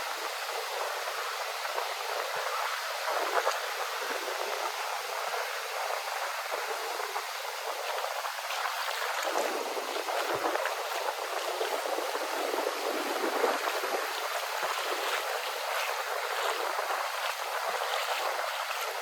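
Small waves washing onto a beach: a steady hiss of surf that swells gently a couple of times, thin and without any deep rumble.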